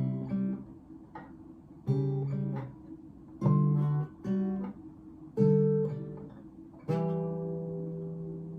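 Solo acoustic guitar playing slow chords, each one picked and left to ring, about six in all, the last one ringing out long.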